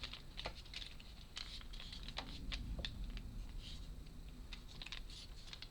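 Irregular light clicks and taps of small wooden puzzle parts being handled and pushed into place.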